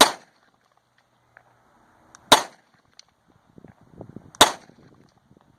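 Three gunshots fired at a target, about two seconds apart, each a sharp crack with a short echo.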